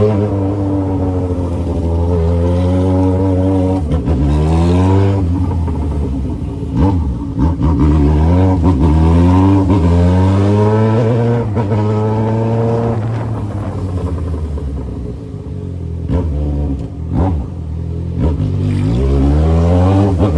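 Yamaha XJ6's inline-four engine through a 3-inch aftermarket exhaust, accelerating hard up through the gears, its pitch climbing and dropping back with each shift. It eases off around the middle, then pulls up through the revs again near the end.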